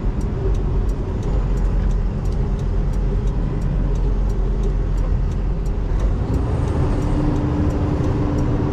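Semi truck's diesel engine running while driving, heard from inside the cab, with faint ticking about twice a second; the engine tone climbs to a steady higher note about six seconds in.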